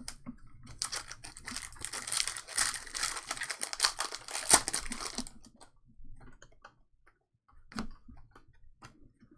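Trading cards and their packaging being handled: dense crinkling and rustling for about four seconds, loudest near the end of that run, then only a few light clicks and taps.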